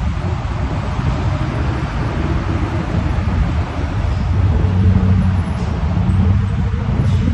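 Highway traffic noise: steady tyre and road rumble under a low engine hum that grows louder about halfway through.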